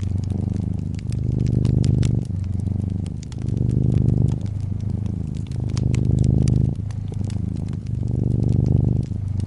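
Brown tabby cat purring close to the microphone, swelling and easing with each breath about every two seconds, over a wood fire crackling with frequent small sharp pops.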